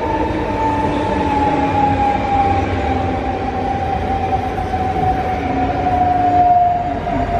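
Regional electric multiple-unit passenger train passing on an elevated concrete viaduct: a rumble of wheels and running gear with a steady motor whine that slowly falls in pitch as it goes by.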